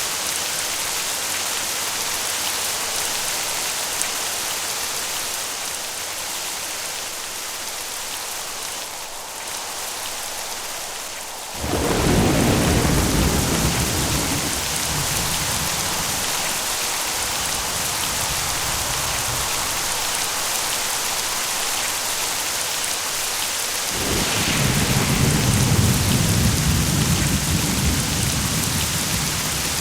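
Steady rain hissing throughout, with two rolls of thunder: one breaks in suddenly about twelve seconds in and rumbles on for several seconds, and a second, deeper rumble swells up near the end.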